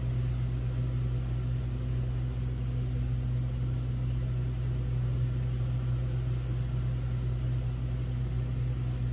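Hotel-room air conditioner running, a steady low hum with a soft even hiss of moving air.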